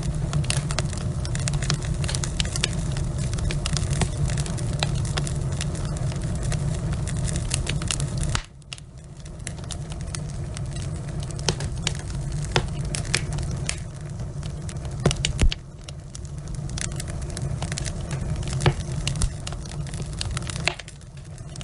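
Wood fire burning in a fireplace: logs crackling and popping over a low steady rumble. The rumble drops away suddenly about eight seconds in, then builds back while the crackling goes on.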